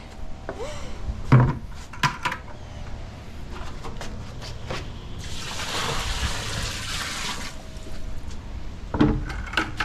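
Water poured into a washing machine's wash tub over the clothes, with a heavy pour lasting about two seconds from about five seconds in. A few knocks and clunks come before it and once more near the end.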